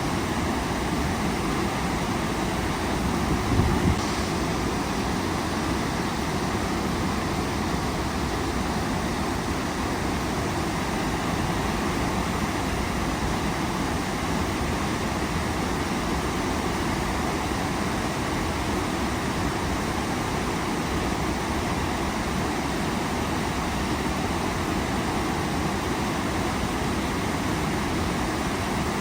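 Waterfall rushing steadily, a constant even roar of falling water, with one brief louder low bump a little under four seconds in.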